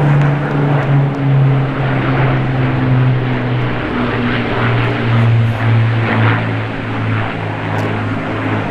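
Piston-engined propeller warbird flying past, its engines droning steadily, the pitch dropping a little about four seconds in as it goes by.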